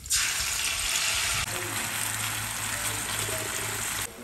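Hot oil sizzling in a wok as chopped garlic and chili fry. About one and a half seconds in it changes abruptly to a slightly quieter sizzle with a steady low hum underneath.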